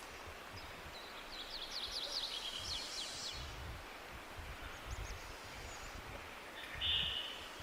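Wild birds singing over a steady rustling hiss: a rapid trill of short, falling high notes about a second in, lasting about two seconds, then a brief, louder call near the end.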